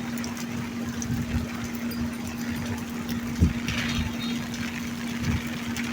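Rain falling steadily, over a steady low hum, with a few dull knocks, the loudest about three and a half seconds in.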